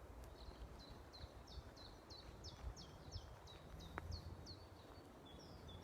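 A songbird singing a run of quick, high, falling notes, about three a second for some four seconds, then a different bird calling near the end, faint against a low rumble of wind.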